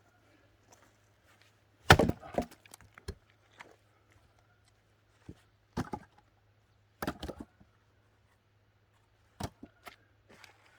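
Axe striking and splitting firewood logs: a series of separate sharp wooden knocks, the loudest about two seconds in, with lighter clacks of wood between the blows.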